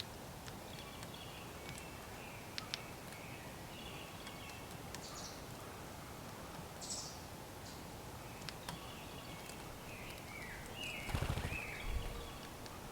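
Faint wild bird calls, short scattered chips and notes with a stepped falling series near the end, over steady outdoor background hiss. Two low thumps near the end are the loudest sounds.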